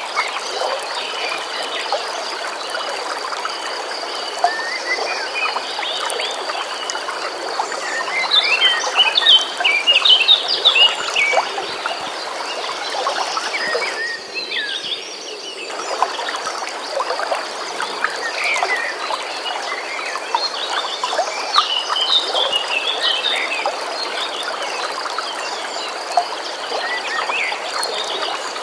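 Songbirds chirping and singing over a steady flowing stream, with a continuous high pulsing trill behind them. The birds and the trill drop out for about two seconds a little past the middle, then resume.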